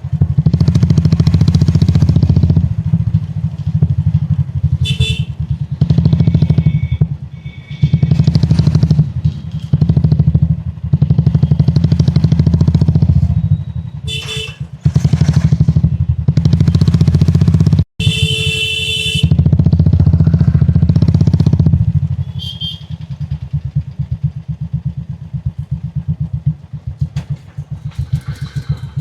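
2019 Royal Enfield Classic 350's single-cylinder engine thumping through its exhaust while riding. The throttle opens and closes in repeated surges. Over the last several seconds it runs quieter at low revs with slower, separate beats.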